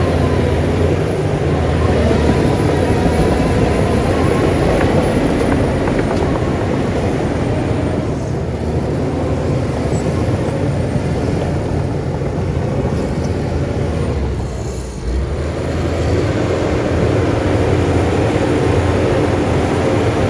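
Shantui bulldozer's heavy diesel engine running steadily under load, dipping briefly about fifteen seconds in before picking back up.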